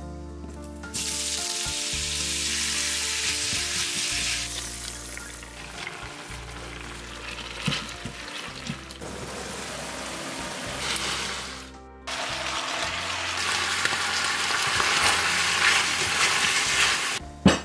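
Sea cucumber and chicken pieces sizzling in hot oil as they are stir-fried over high heat: a steady frying hiss that breaks off briefly about twelve seconds in, then a sharp knock near the end.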